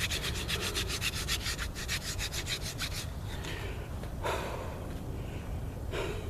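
Hand-drill fire-by-friction: a mullein-stalk spindle spun back and forth between the palms, grinding into a wooden fireboard in a fast, even rubbing rhythm of about seven strokes a second, wearing out the hot dust that forms the ember. The drilling stops about three seconds in, and two short, soft rushes of noise follow.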